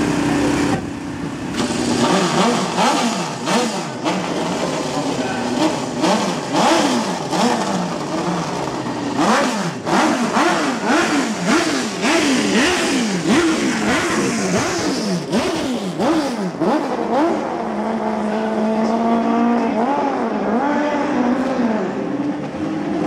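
Honda CB500-based racing motorcycle with a roughly 760cc race engine, just started and being blipped over and over, its note rising and falling about once a second. Near the end it settles into steadier running.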